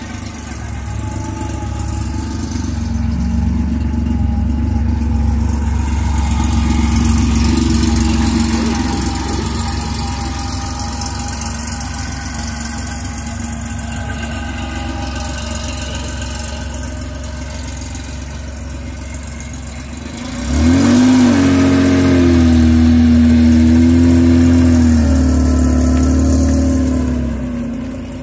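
Porsche 911 Carrera's air-cooled flat-six engine running at idle, its loudness swelling gently over the first several seconds. About twenty seconds in, the revs jump suddenly and loudly as the car pulls away, hold for several seconds, then fall away near the end.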